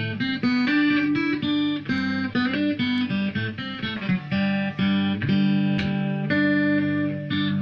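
Acoustic guitar being played: a quick run of plucked and strummed notes over sustained low bass notes, with no singing.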